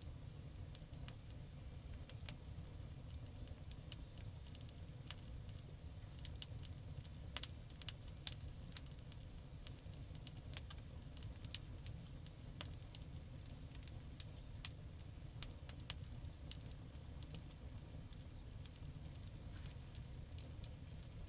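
Campfire burning: scattered crackles and sharp pops over a steady low rumble, with the pops coming thicker and louder about six to nine seconds in.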